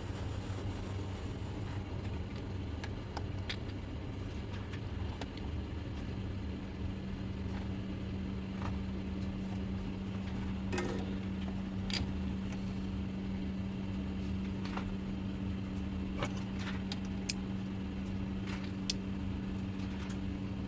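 Steady low electrical hum at mains frequencies from the powered relay test circuit, with a few faint sharp clicks of handling the board and probes.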